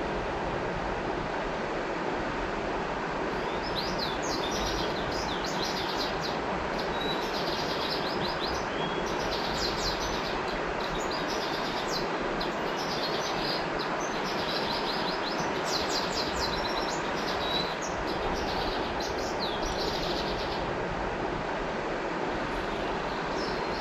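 River water flowing with a steady rushing sound, with birdsong of quick, repeated chirps from about three seconds in that stops a few seconds before the end.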